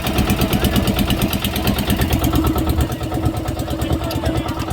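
Boat engine running steadily at a constant speed, a fast even firing pulse with a steady hum.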